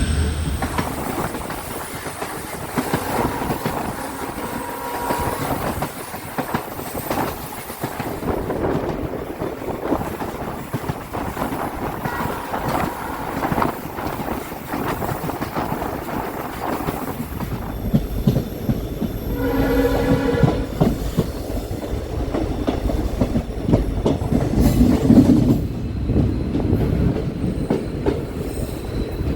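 Train running along the line, wheels clicking over the rail joints under a steady rumble, with a horn sounding once for about a second around two-thirds of the way through.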